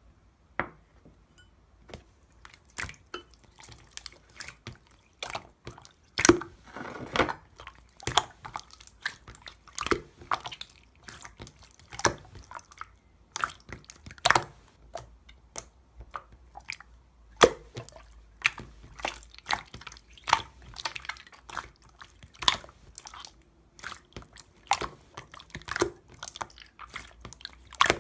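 Clear, firm slime being squeezed and played with by hand, making irregular wet clicks and pops, a few a second.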